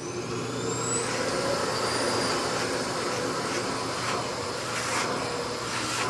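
Mitsubishi canister vacuum cleaner running, its motor whine still rising for about the first second before settling into a steady rush of suction with a low hum.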